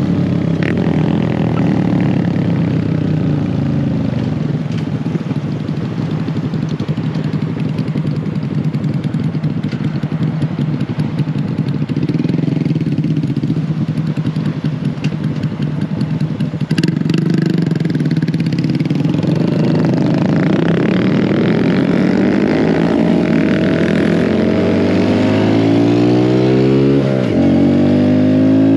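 Mini bike engine running under way, holding a steady speed for most of the stretch. Near the end it revs higher, drops briefly and climbs again.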